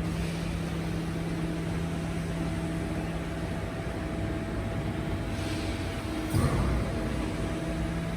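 Garbage truck running with a steady mechanical hum holding a few fixed tones, and a louder, swelling low surge a little past six seconds in.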